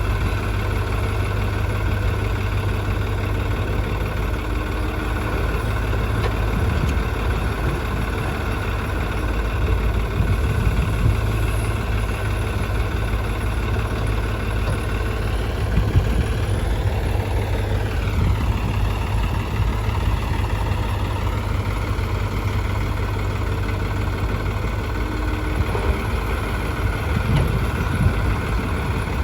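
Diesel engine running steadily at idle, its pitch dipping and then rising again about sixteen to twenty seconds in, with a few brief knocks.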